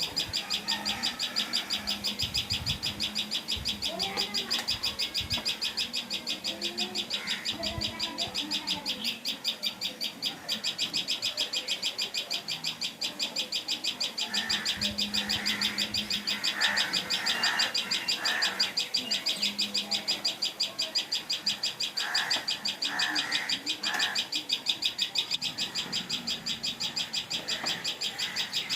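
Common tailorbird calling: a fast, steady run of sharp, high-pitched notes repeated many times a second, with scattered lower bird calls between them.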